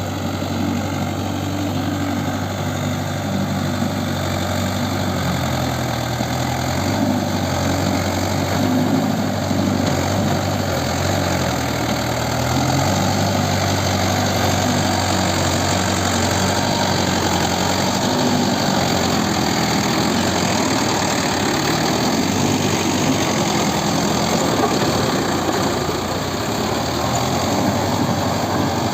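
Mahindra Yuvo 575 four-cylinder diesel tractor engine running steadily, its speed rising and falling a little as it works through mud.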